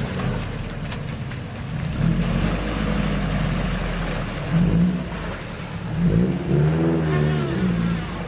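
A 1991 Toyota pickup's 22RE four-cylinder engine running through a performance exhaust as the truck drives, with wind and road noise; the engine note rises and falls about three-quarters of the way through.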